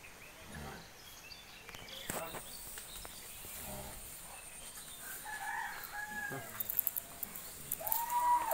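A rooster crowing near the end, after a few short, faint bird calls and clicks in the farmyard.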